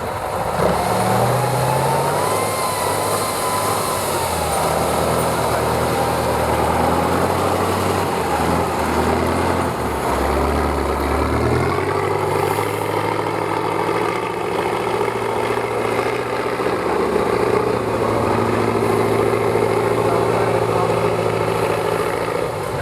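A competition trial truck's engine running hard on the course, its pitch stepping up and down as the driver revs and eases off. A thin whine wavers in pitch over the first few seconds.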